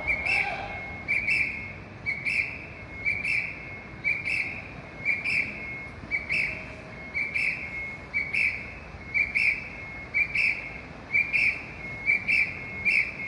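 A high-pitched signal tone that pulses about once a second, with a steady tone held between the pulses.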